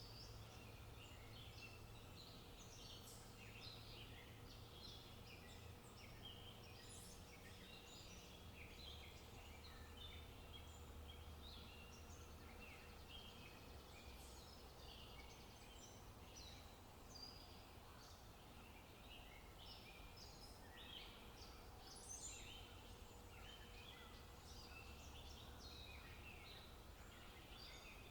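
Faint chorus of wild birds: many short, high chirps and calls overlapping one another, over a low steady background rumble.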